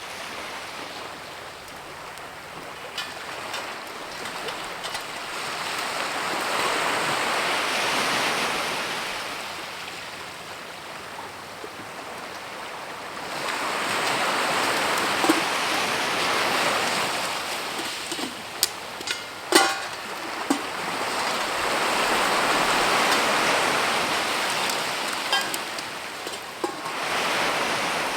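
A rushing noise that swells and fades every several seconds, with scattered sharp pops, most in the middle and near the end: popcorn kernels beginning to pop in a pot over a campfire.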